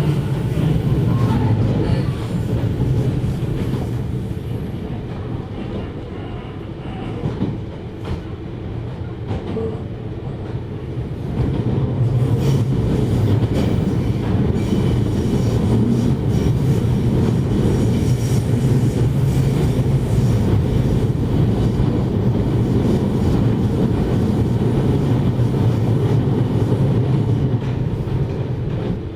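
JR Hokkaido 733 series electric multiple unit running, heard from inside the passenger car: a steady low rumble of wheels and motors on the rails. It eases off for several seconds and grows louder again about twelve seconds in.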